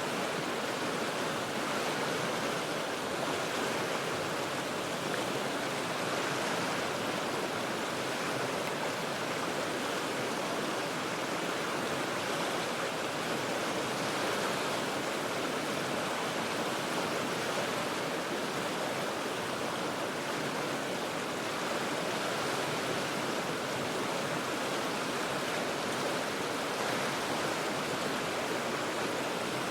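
Steady rush of the Cheat River flowing over rocks, heard from high above the water as an even, unbroken roar.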